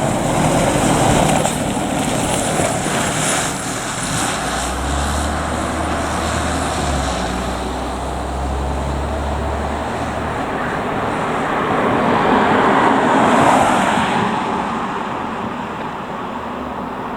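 Road traffic noise: vehicles going by, with a heavy engine's low rumble partway through and one pass swelling and fading near the end.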